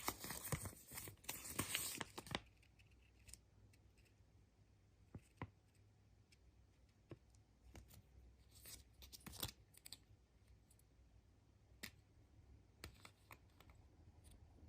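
Surprise egg packaging being unwrapped and handled: crinkling and tearing of a wrapper for the first two seconds or so, then scattered small clicks and taps.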